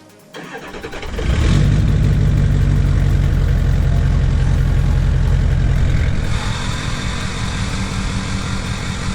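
Ford F550 Super Duty's V8 diesel engine starting through a 4-inch straight-pipe exhaust: brief cranking, then it fires about a second in and runs loud and fast. Around six seconds in it settles to a lower idle.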